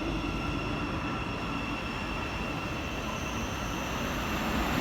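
Non-stop express train approaching through a station: a steady rumble with several high, steady tones, getting louder near the end as the train draws close.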